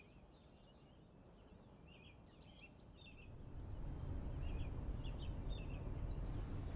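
Small birds chirping in short repeated calls over a low, steady outdoor background rumble that grows louder about three seconds in.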